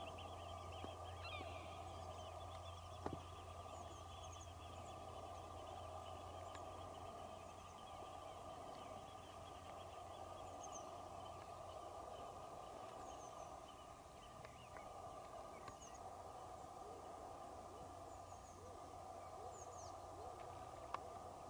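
Faint bird calls: a rapid chattering trill near the start, then short high chirps every second or two, over a steady low background hum.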